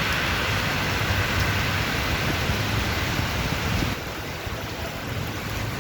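Heavy rain pouring down in a steady hiss, a little quieter from about four seconds in.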